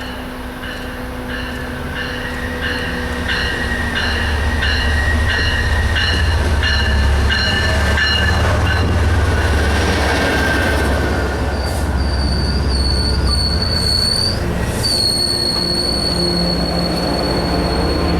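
Train passing close by on rails, with a loud rumble that builds over the first few seconds. A bell-like ding repeats about one and a half times a second and fades away partway through, and a steady high-pitched wheel squeal sets in after about twelve seconds.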